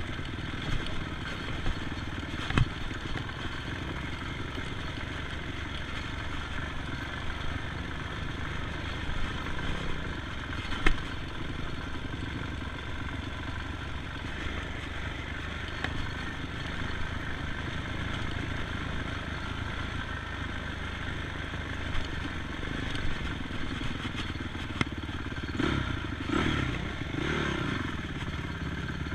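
ATV engine running steadily while riding, with a couple of sharp knocks and clatter from the machine over the terrain, and the engine revving up and down near the end.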